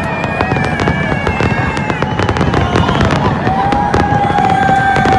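Fireworks display: a dense barrage of shell bursts and crackling stars, many rapid bangs overlapping. Long held tones run over the top, one rising in clearly about halfway through.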